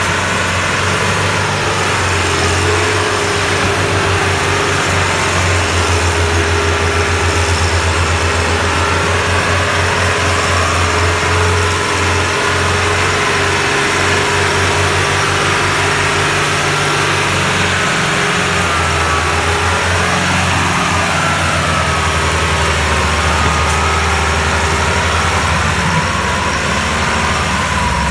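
Tractor engine running steadily with a low, throbbing beat.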